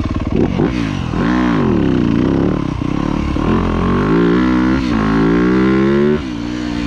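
2025 Yamaha YZ250F's single-cylinder four-stroke engine revving from idle as the dirt bike pulls away. A quick blip near the start, then two long climbs in pitch with a shift between them, before the throttle closes about six seconds in.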